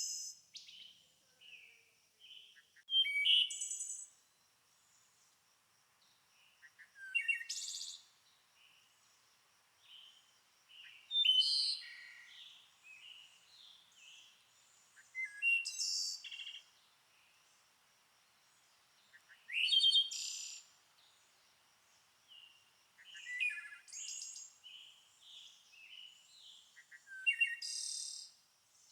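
A songbird singing a short, complex phrase of quick notes about every four seconds, with softer chirps between phrases and a faint steady high whine underneath.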